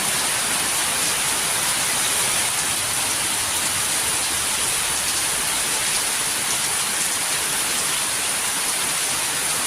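Steady, heavy rain falling, a constant hiss of drops that holds at one level throughout.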